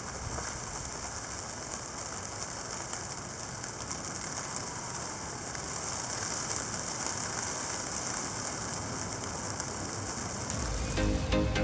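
Steady hiss of heavy sleet and wet snow coming down, with scattered faint ticks of pellets hitting. Electronic music starts near the end.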